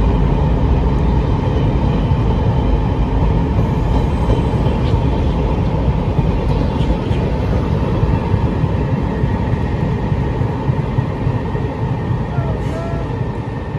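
Passenger train departing, its carriages rolling past on the rails in a steady low rumble that slowly fades as the train pulls away.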